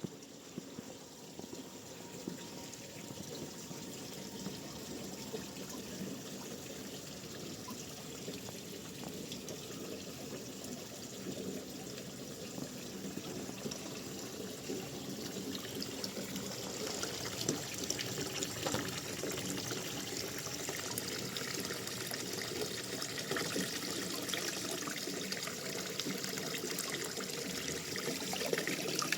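Running water, a steady trickling flow that grows gradually louder, with faint scattered clicks.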